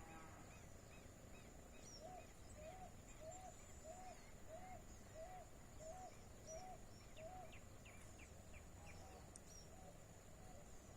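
Faint bird calls: a series of about nine short, evenly spaced arched notes, a little under two a second, with a few higher chirps around them, over a steady thin high-pitched whine.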